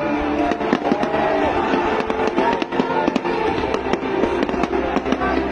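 Aerial fireworks display: shells bursting in a rapid, irregular string of bangs and crackles, several a second, over music.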